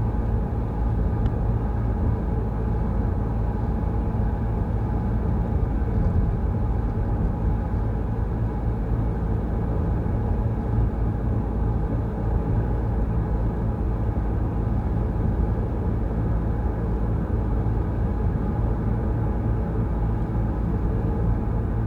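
A car driving steadily on a wet road: a constant low rumble of engine and tyres, with no change in pace.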